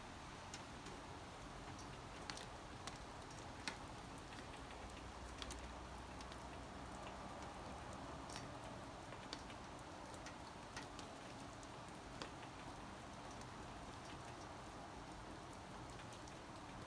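Light rain: a faint steady hiss with single drops ticking sharply and irregularly on a hard surface.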